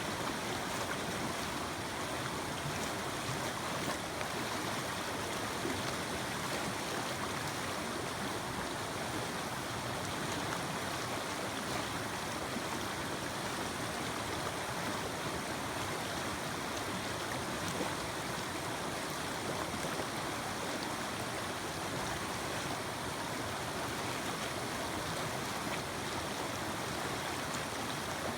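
Mountain creek running, a steady rush of flowing water over rocks.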